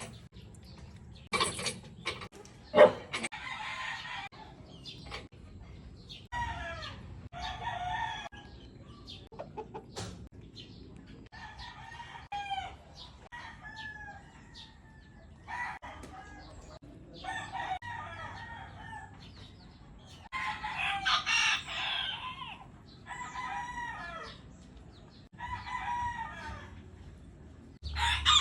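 Bouts of bird calls, each lasting a second or two, with house sparrows chirping and chattering alongside a bantam chicken's clucking calls. A single sharp click, the loudest sound, comes about three seconds in.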